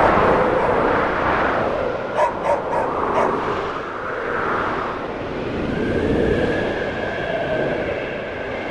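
Snowstorm wind blowing in swelling gusts, with a faint whistle later on. A distant dog barks three times about two to three seconds in.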